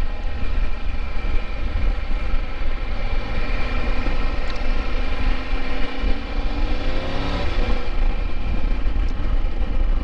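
Motorcycle engine running under way with heavy wind rumble on the microphone; about four seconds in the engine note rises steadily as it accelerates, then falls back suddenly about three seconds later.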